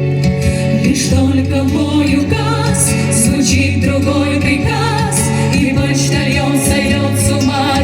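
Female vocal ensemble singing with vibrato over an instrumental backing track with a steady bass line and light percussion.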